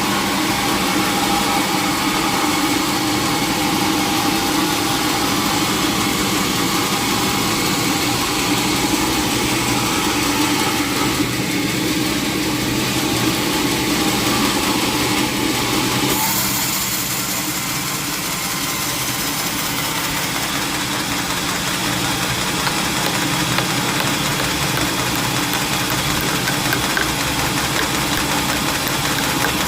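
Engine-driven sawmill machinery running steadily, with a constant drone and hum; the sound's character changes abruptly about halfway through.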